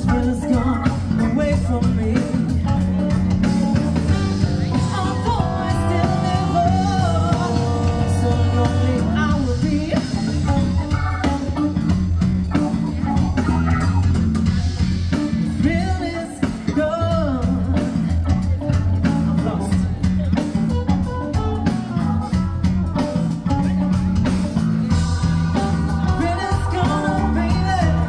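Live band playing a slow blues instrumental break: an electric guitar lead with bending notes over bass and drums.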